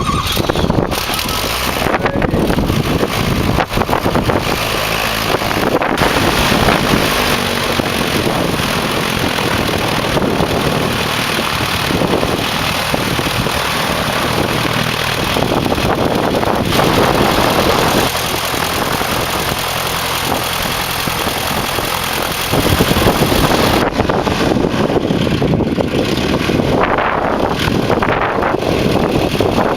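Light aircraft's piston engine and propeller running on the ground after a hard start, its note shifting a little now and then and growing louder a little over 20 seconds in.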